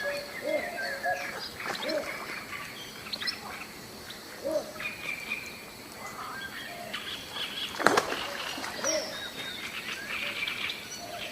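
Several birds calling and chirping, short calls coming one after another, with one sharp click or knock about eight seconds in.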